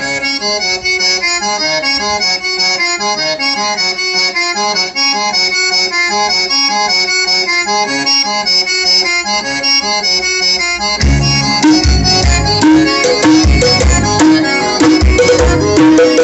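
Accordion-led music played loud through a compact home-built four-way speaker cabinet during a sound test. About eleven seconds in, heavy bass and drum hits come in.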